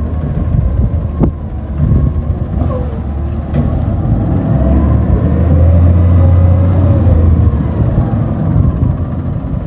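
Recycling garbage truck's diesel engine running, speeding up and getting louder for a few seconds in the middle with a high hiss alongside, then easing back; a couple of sharp clicks early on.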